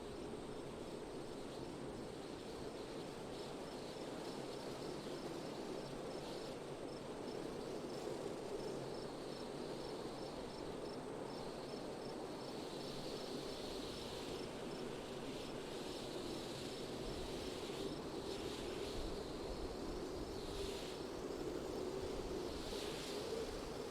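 Steady wind blowing, with an insect chirping in an even, high-pitched pulse through the first half. Several gusts swell and fade in the second half.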